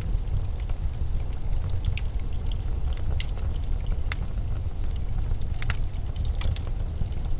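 Blizzard wind making a steady deep rumble, with scattered faint crackles and ticks over it.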